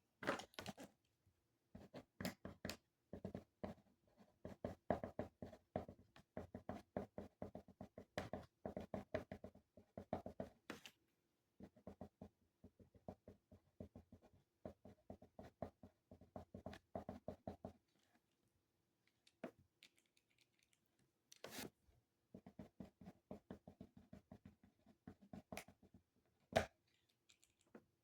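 Faint pen or pencil writing on paper: quick scratching strokes in bursts of a few seconds, with short pauses, over a low steady hum.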